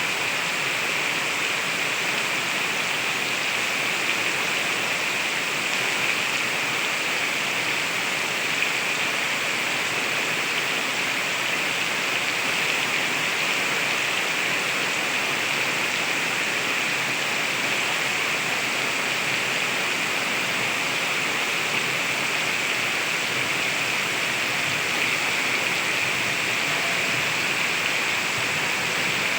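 Heavy rain pouring down steadily, an even unbroken hiss with no let-up.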